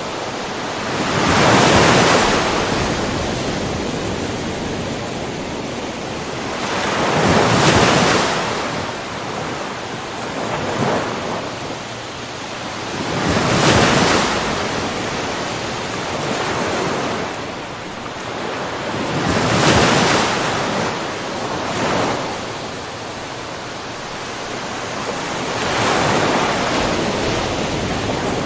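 Ocean waves washing in, a big surge rising and falling about every six seconds, five times, with a steady hiss of surf between.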